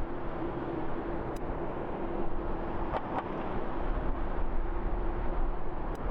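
Boeing 747-8's jet engines running: a steady rumble with a droning tone held throughout, and a couple of faint clicks.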